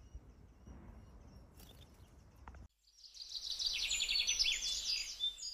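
Faint, low outdoor background noise, then after a sudden cut about two and a half seconds in, a bird singing rapid, high trilled phrases.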